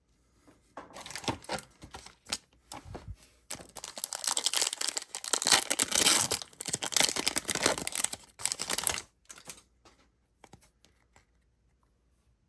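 A Panini Select trading-card pack's foil wrapper being torn open and crinkled: a short crackling about a second in, then a louder stretch of tearing and crinkling lasting about five seconds.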